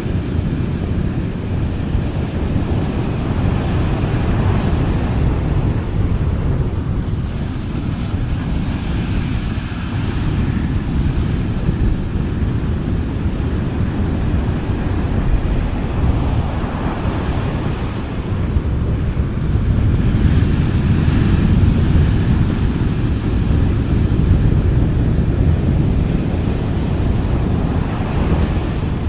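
Sea waves washing onto a beach in slow swells, with low rumbling wind noise on the microphone.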